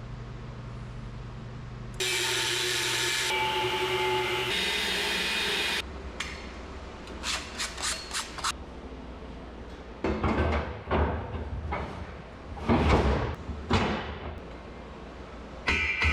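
Shop tool work on steel: a loud steady noisy tool run of about four seconds, then a quick series of sharp strikes, then several rough bursts of scraping or rubbing.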